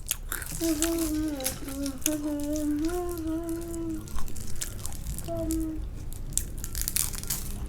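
A voice humming a few wordless, held notes, with crunchy snacks being bitten and chewed, giving sharp crackly clicks throughout.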